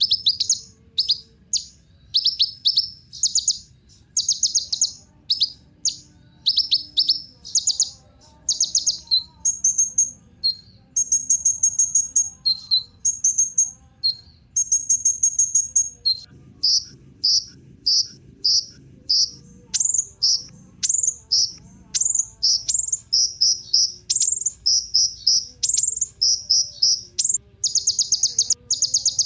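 Kolibri ninja sunbird singing: fast series of short, high-pitched chirps mixed with brief trilled phrases, repeating with hardly a pause.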